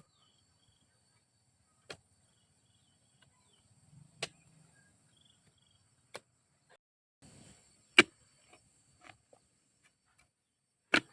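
Sharp chopping strikes, one every two seconds or so at an uneven pace, the loudest about eight seconds in and just before the end, over a faint steady insect drone.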